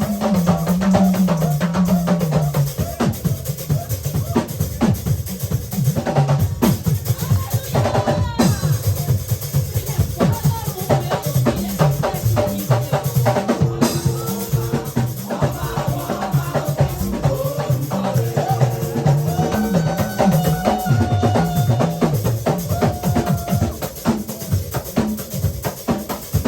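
Band music: a drum kit keeping a steady beat over a moving bass line and held chords.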